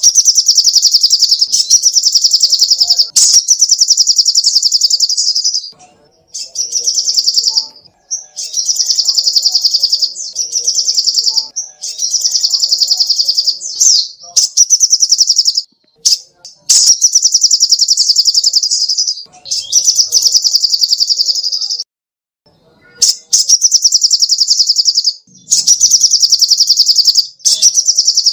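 Sogok ontong (a spiderhunter) singing: long, loud, high-pitched trills of very fast repeated notes, each running one and a half to three seconds, one after another with brief pauses between.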